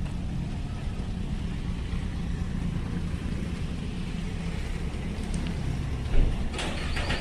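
A steady low rumble like an engine running, with a sudden thump about six seconds in and some clattering near the end.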